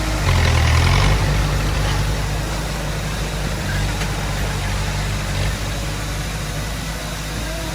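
Heavy machine's diesel engine running steadily, rising in level for about a second near the start before settling back to a steady run.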